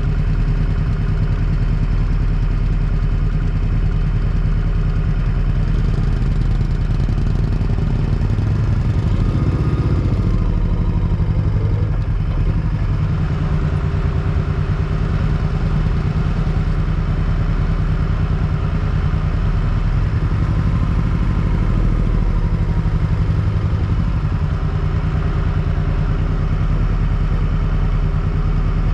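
Motorcycle engine running steadily during a ride, with a brief rise and fall in pitch about ten seconds in.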